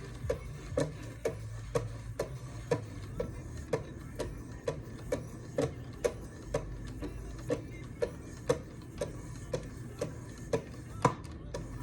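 Wicked Edge guided sharpening system in use: 2200 and 3000 grit stones stroked along a knife blade's edge, a short click on each stroke at a steady rate of about two a second.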